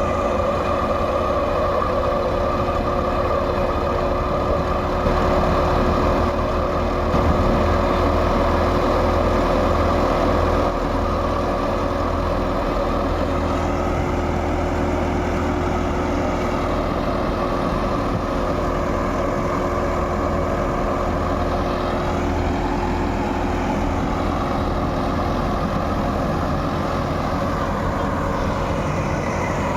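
Heavy diesel farm-machine engine running under load, with the revs rising and falling a few times.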